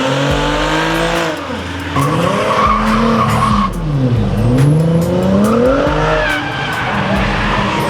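Car engine revving up and down with tyres squealing, the sound of a car drifting; the revs drop sharply and climb again about four seconds in.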